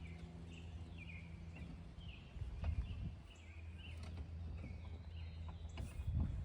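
A bird chirping over and over in short, falling chirps, over a steady low hum, with a couple of knocks about a third of the way in and again near the end.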